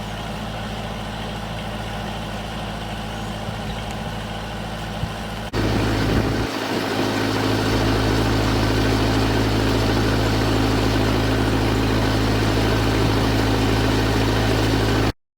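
Small petrol engine of a water pump running steadily at a constant speed while it pumps the pond down; the sound steps up abruptly, louder, about five and a half seconds in.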